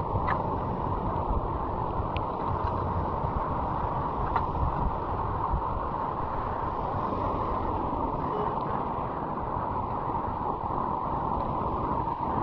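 Steady rush of flood water running through a street culvert drain, with a few faint clicks.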